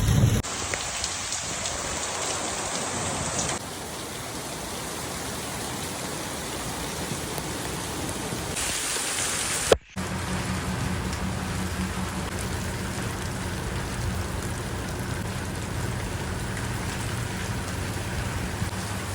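Steady rain falling, its sound changing abruptly a few times where recordings are joined. A sharp click and a split-second dropout come about halfway through. After that the rain carries on with a low rumble beneath it.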